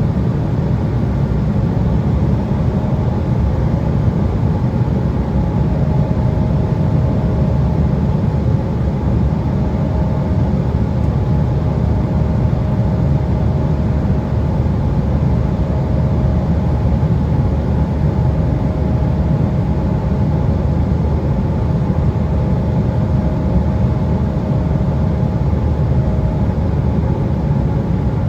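Steady cabin drone of an Embraer 175 regional jet at cruise: a low rumble of airflow and its two turbofan engines, with a faint steady hum higher up.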